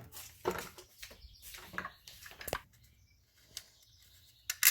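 Irregular light clicks, knocks and rustles of an engine-bay wiring harness being unclipped and worked loose by hand, with the sharpest click near the end.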